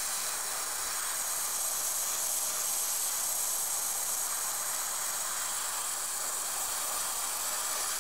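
Draper side-feed trigger airbrush with a 0.5 mm nozzle spraying thinned acrylic paint at 15 psi: a steady, unbroken air hiss.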